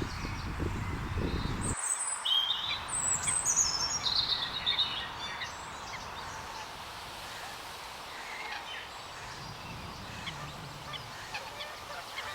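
Small birds chirping and calling: a run of short high notes stepping down in pitch between about two and five seconds in, over steady outdoor background noise. A low rumble fills the first couple of seconds.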